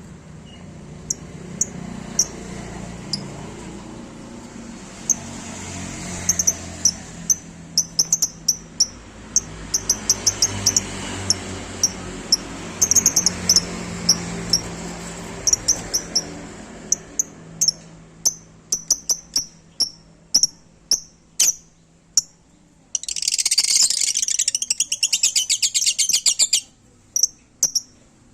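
Lovebirds chirping: many short, sharp, high-pitched chirps that come faster in the second half, with a burst of rapid, dense chattering lasting about three seconds near the end.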